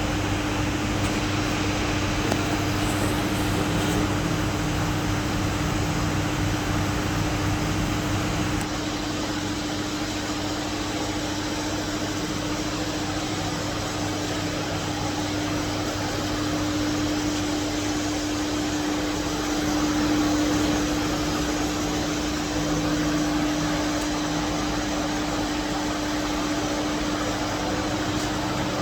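Steady machine hum with a constant low tone and an even hiss, which thins out a little in the low end about nine seconds in.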